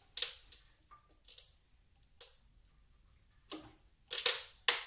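Irregular sharp clicks and knocks of a tool working against a coolant water neck that is stuck to the engine by its old O-rings, as it is pried loose. The knocks come a few at a time, the loudest cluster near the end.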